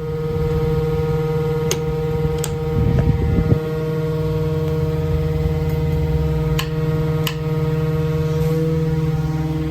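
A steady mechanical hum with several fixed pitches, broken by four short sharp clicks.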